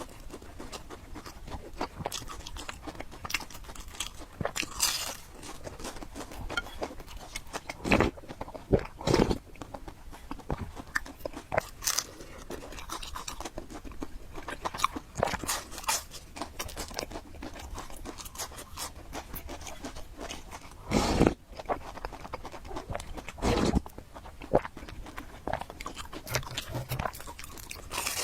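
Close-up eating sounds: a person chewing and slurping noodles, with wet mouth clicks and a few louder bites or slurps.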